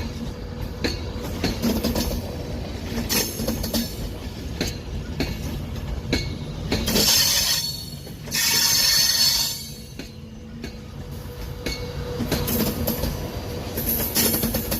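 A train moving through the station, its wheels clicking over rail joints above a steady low rumble and hum, with two loud, high screeching bursts near the middle.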